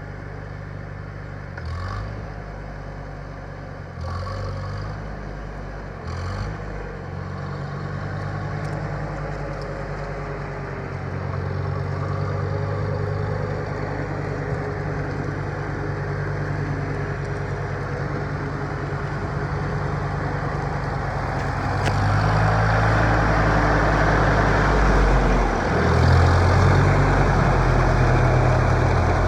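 Farmall M tractor's four-cylinder engine running steadily, with a few brief changes in the first seconds, then growing louder, most of all from about three quarters of the way through.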